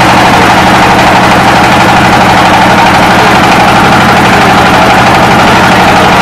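An engine running steadily and loudly, with a rapid, even pulsing.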